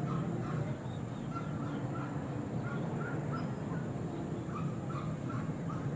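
Repeated short bird calls, about two a second, over a steady low hum.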